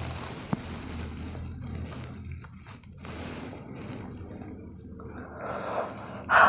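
Close-miked wet mouth sounds of someone chewing a mouthful of spicy Korean instant noodles, with a light fork click about half a second in and a short, louder mouth sound near the end as the next forkful goes in.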